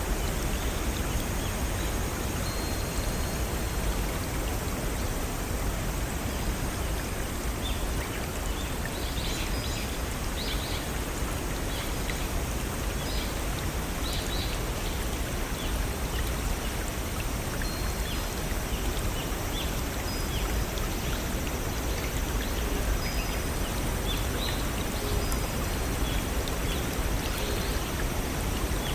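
Small stream and waterfall running steadily over rocks, an even rush of water. Faint, scattered high bird chirps come through it, mostly in the middle and near the end.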